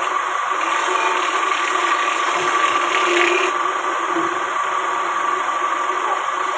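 Woodworking power tool running steadily with a constant hum over a noisy whir.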